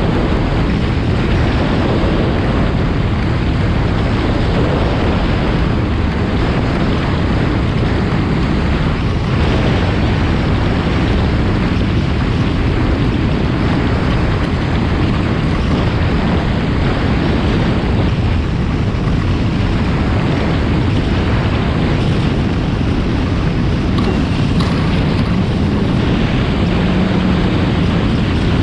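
Supercharged Yamaha FX SVHO personal watercraft running steadily under way, its engine and jet pump mixed with water rushing past and heavy wind buffeting on the microphone.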